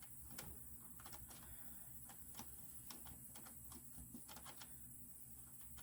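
Faint, irregular clicks and taps of a small latch on a chicken plucker being worked loose by hand, a dozen or so over a few seconds.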